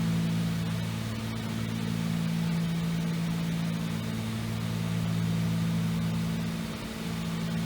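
Cessna 310's twin piston engines and propellers droning steadily in flight. The pitch of the drone shifts slightly a few times.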